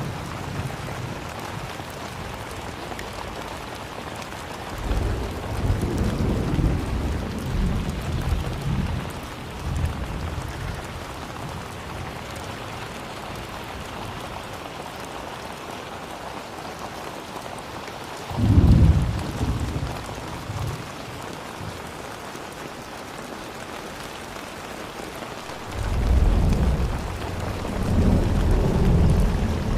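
Steady rain falling, with deep rolls of thunder: one rumble about five seconds in, a sharper, louder crack of thunder a little past the middle, and more rumbling near the end.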